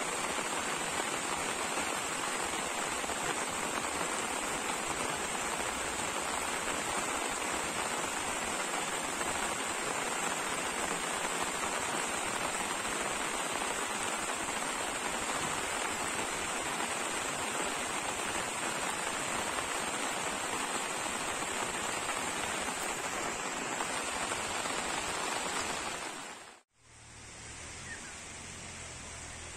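Heavy rain falling steadily as a constant hiss. A little over 26 seconds in it cuts out abruptly, then comes back quieter.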